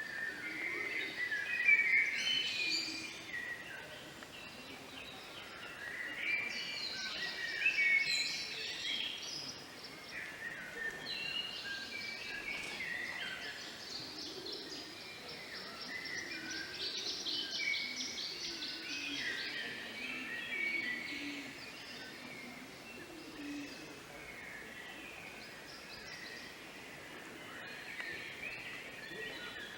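Several songbirds singing at once, overlapping warbled and trilled phrases with no break, loudest about two seconds in and again around eight seconds.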